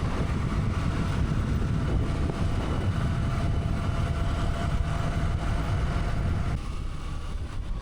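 Motorcycle running at road speed, with wind rushing over the microphone. The noise drops to a lower level about six and a half seconds in.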